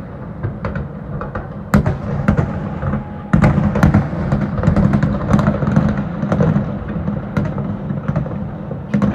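Aerial fireworks going off in quick succession, many sharp bangs and crackles over a steady low rumble. The heaviest bangs come about two seconds in and again at three and a half seconds.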